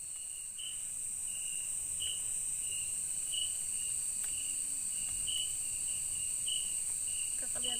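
Night insects of the rainforest: a steady high-pitched drone, with a shorter chirp repeating about twice a second over it.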